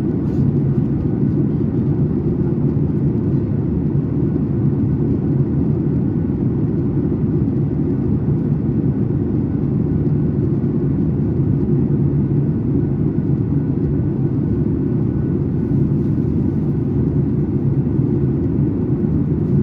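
Cabin noise inside a Boeing 737 MAX 8 in flight: a steady low drone of its CFM LEAP-1B turbofans and the air rushing over the fuselage.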